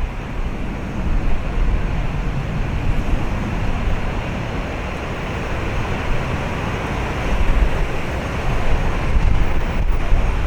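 Steady cabin noise of a Boeing 737-800 climbing after takeoff: the low rumble of its CFM56 turbofan engines and rushing airflow, swelling and easing a little.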